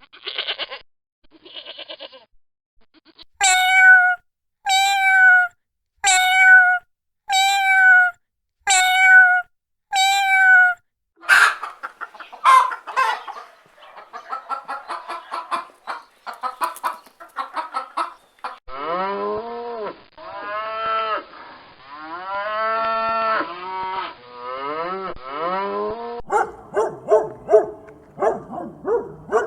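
Recorded domestic farm animal calls played one after another. First a few short calls, then six identical pitched calls evenly spaced, then a dense run of quick calls, then long drawn-out lower calls, and short sharp calls near the end.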